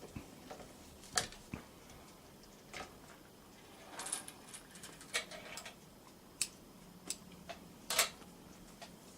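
Irregular light clicks and knocks, about ten spread unevenly through, with a brief rustling cluster about four seconds in: small handling noises at a Singer K29 sewing machine as the stitched sample is taken from it.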